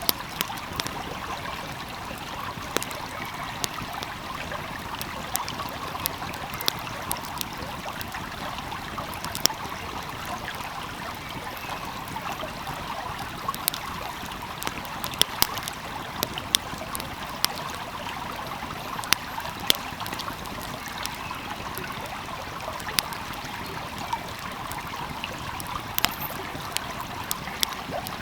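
Steady rushing of a flowing stream, with an open fire crackling over it in scattered sharp pops and clicks at irregular intervals.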